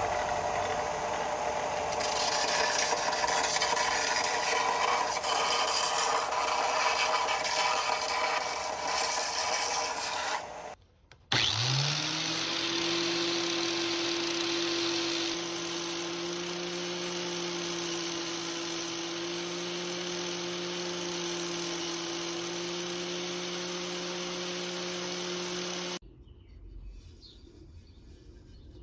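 A power tool runs twice. First comes about ten seconds of rough, noisy running. After a brief stop, the motor spins up with a rising whine about eleven seconds in, holds a steady pitch, and cuts off suddenly near the end.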